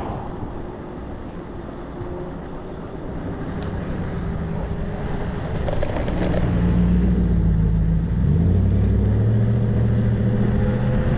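A motor vehicle's engine grows louder over several seconds, then runs steadily with a low hum that shifts pitch once partway through, over a wash of road and wind noise.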